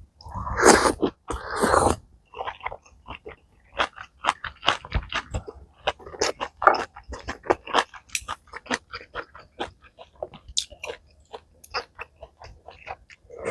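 Close-miked eating of malatang: chewing and crunching, with many short wet clicks, after two louder, longer noisy sounds in the first two seconds.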